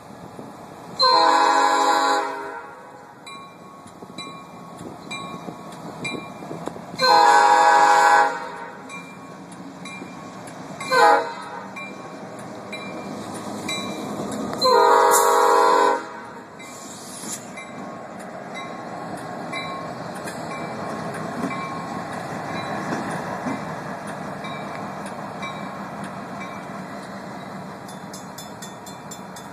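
GP38-3 diesel locomotive's air horn sounding the grade-crossing signal: two long blasts, a short one, then a long one, each a chord of several tones. After the last blast the locomotive's engine rumble builds as it draws near.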